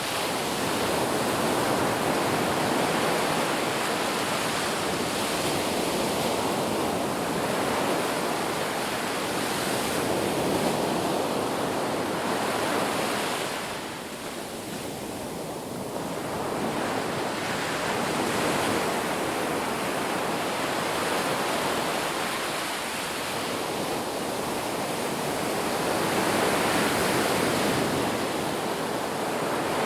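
Ocean waves breaking and washing on a beach, a continuous surf rush that swells and ebbs, easing off briefly about halfway through before building again.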